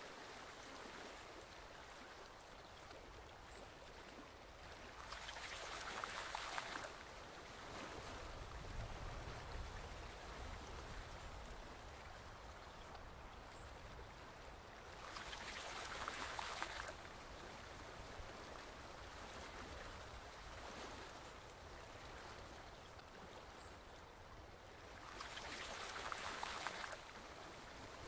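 Flowing stream water, a steady rush that swells louder for about two seconds three times, roughly every ten seconds.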